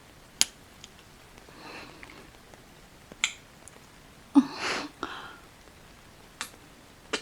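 Close-miked kissing sounds: about five wet lip smacks spread over several seconds, the loudest one about four seconds in followed by a short breath.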